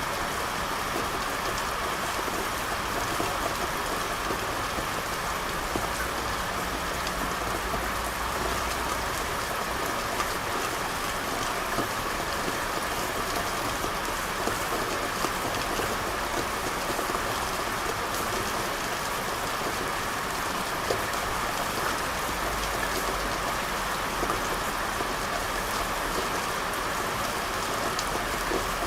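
Steady rain falling and pattering on hard surfaces, with scattered individual drops ticking through it. A faint low rumble sits underneath for the first third and again near the end.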